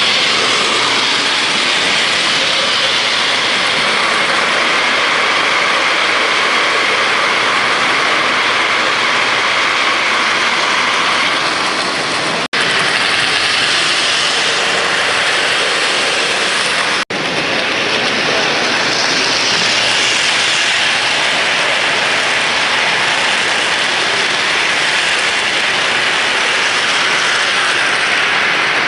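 Model trains running on a show layout: a steady rolling noise and hiss from the track, broken by two brief dropouts about twelve and seventeen seconds in.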